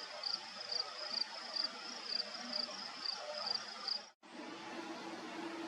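A high, steady insect trill with brighter pulses about twice a second, which cuts off abruptly about four seconds in. After it comes a faint outdoor ambience with a low steady hum.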